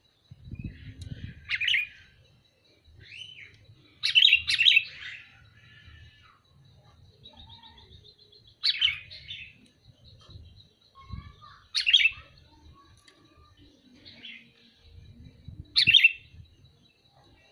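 Sooty-headed bulbul (kutilang) giving short, bright calls, one burst every three to four seconds, five times in all, with a double burst about four seconds in.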